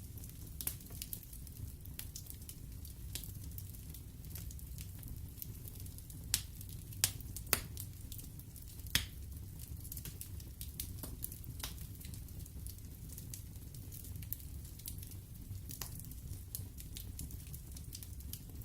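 Wood fire burning in a fireplace, crackling with many small scattered clicks over a steady low rumble of the flames. A few louder sharp pops come a little past the middle.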